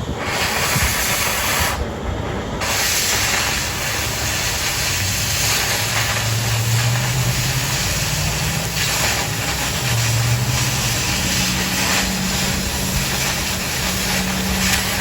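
Oxy-fuel cutting torch hissing steadily as it cuts through steel plate. The hiss briefly drops about two seconds in and then runs on evenly.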